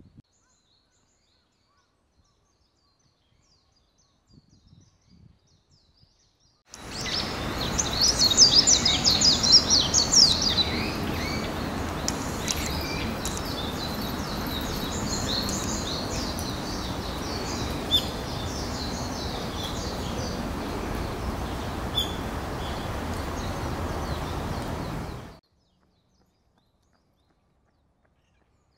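Near silence, then about seven seconds in, outdoor ambience cuts in abruptly: many birds chirping and singing over a steady background hiss. The birdsong is busiest just after it starts, and everything cuts off suddenly a little after twenty-five seconds.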